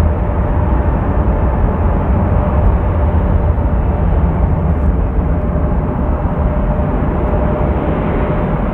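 Jet airliner engines running steadily on a landing approach: a low rumble with a faint, steady whine above it.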